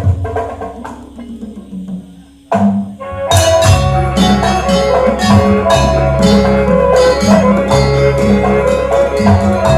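Traditional percussion-led dance music. The playing dies away to a near-pause about two seconds in. A single strike follows, and then the full ensemble comes back loudly from about three seconds, with quick drum strokes under ringing tuned percussion.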